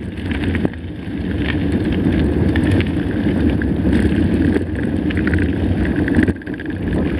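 Mountain bike riding over a dirt track, with wind buffeting the microphone in a steady low rumble and the bike rattling and clicking over rough ground.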